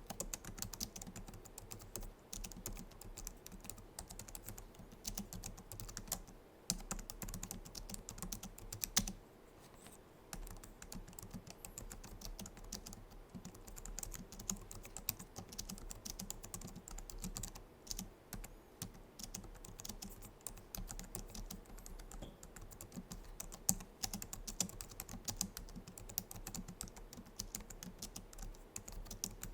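Continuous typing on a Logitech MX Keys, a low-profile scissor-switch keyboard: a quick, dense patter of soft key clicks, with brief pauses about seven and ten seconds in.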